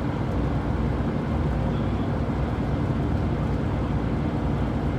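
Bus running along the road, heard from inside the passenger cabin: a steady low rumble of engine and road noise.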